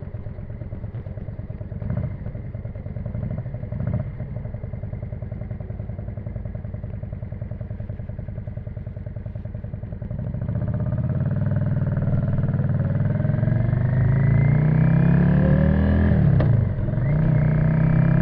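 Yamaha XV535 Virago's 535 cc V-twin with a custom exhaust, running steadily at low revs for about ten seconds. It then gets louder as the revs climb under acceleration, with a brief drop in pitch near the end, like a gear change, before the revs rise again.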